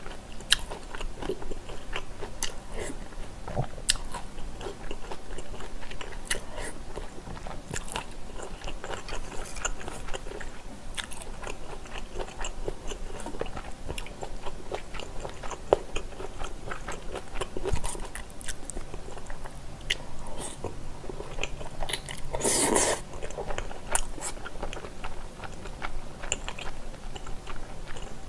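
Close-miked mouth sounds of a person chewing a mouthful of spicy bulgogi and glass noodles: wet chewing with many small smacking clicks. One brief, louder noisy sound comes about two-thirds of the way through.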